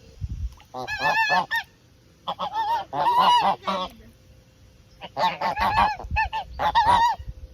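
Domestic geese honking in three bouts of repeated calls, each call wavering in pitch.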